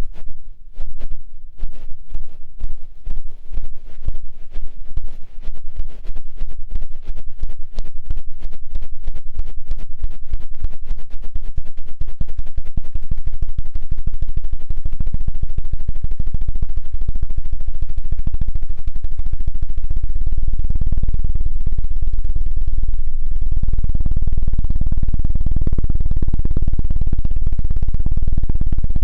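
ASMR 'helicopter' ear-cleaning on a microphone's ear: rapid low thumps that speed up until they blur into a continuous fluttering rumble, growing heavier and louder about 23 seconds in.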